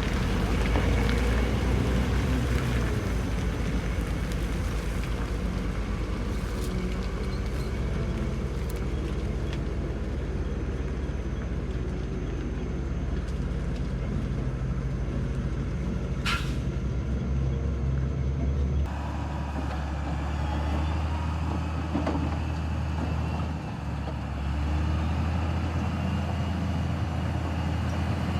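Heavy truck's diesel engine running under load on a slippery uphill climb, a steady low drone. A brief sharp hiss past the middle, like an air-brake release.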